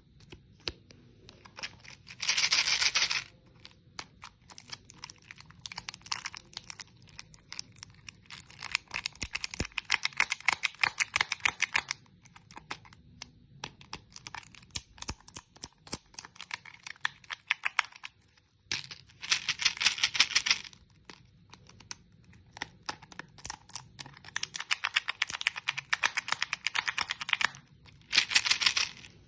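Hard candy crunching and crackling close up: rapid clicks and snaps, with three louder bursts of dense crackling.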